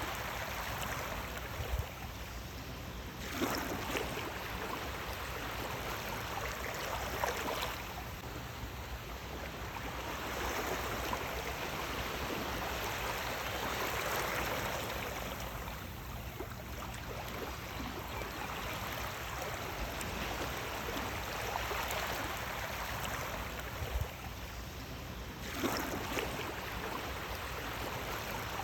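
Sea waves washing in and drawing back, a steady rush of water that swells and fades every several seconds, with sharper breaks about three seconds in, about seven seconds in and near the end.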